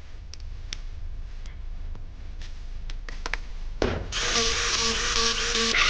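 A few light handling clicks, then about four seconds in a brushed electric power tool's motor switches on and runs steadily, its pitch rising near the end. The tool had been sparking, which the repairer puts down to its carbon brushes.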